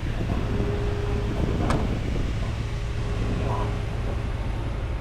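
Steady low rumble of vehicles with a thin steady hum and faint background voices, and a single sharp click about a second and a half in.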